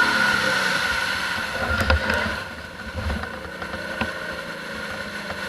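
ATV engine running steadily, dropping in level about two and a half seconds in, with a few knocks along the way.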